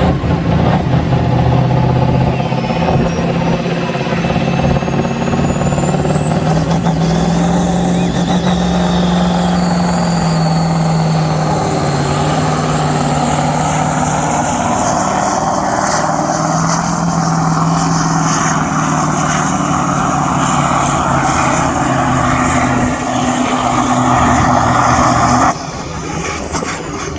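Heavily modified pulling vehicle's engine running hard under load during a pull, with a high whine rising in pitch over the first several seconds. The engine note holds steady, then drops off suddenly near the end as the power is cut.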